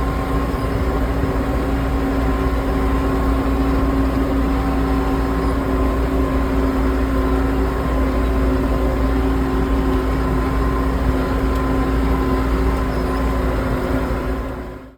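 Tractor engine running at a steady speed while pulling hay rakes: a low rumble with a steady hum of held tones over it. It fades out at the very end.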